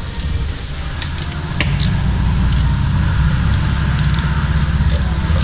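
Steady, loud low rumble of a running motor, with a few scattered light clicks.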